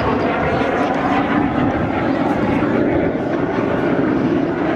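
Steady, loud jet noise from Aermacchi MB-339 jets flying an aerobatic display.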